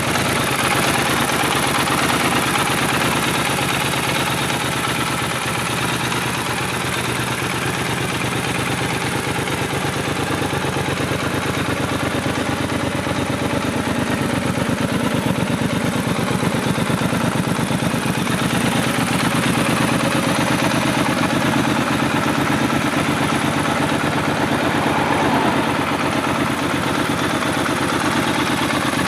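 Triumph Scrambler 1200 XE's 1200 cc parallel-twin engine idling steadily, its exhaust pulses coming evenly.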